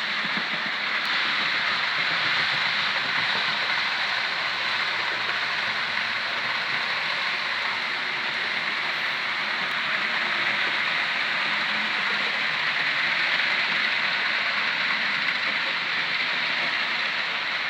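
Model locomotive running on its track: a steady rattling hiss of small wheels on rail joints mixed with electric motor whine, holding an even level throughout.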